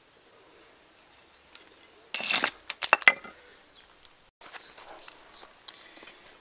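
An axe striking a seasoned, spalted alder spoon blank on the line of an existing split, with a loud crack about two seconds in as the wood splits, then a quick run of sharp knocks and fainter clatter afterwards.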